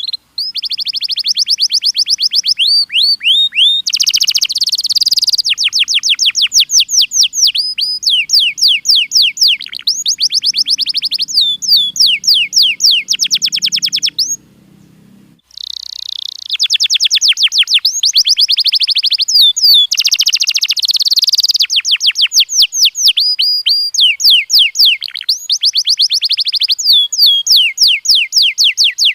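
Domestic canary singing: long trilled phrases of rapidly repeated sweeping notes, breaking off for about a second midway before the song resumes.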